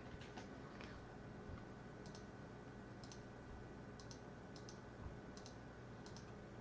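Faint computer mouse clicking, short clicks about once a second, several of them doubled, over a faint steady hum.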